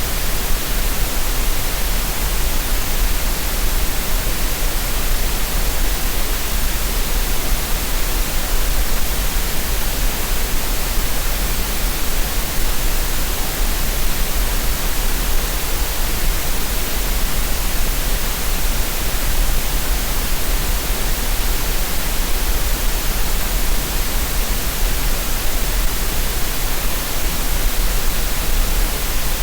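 Steady synthetic green noise: an even, unchanging hiss spread across the whole range with no pattern, no rhythm and no changes.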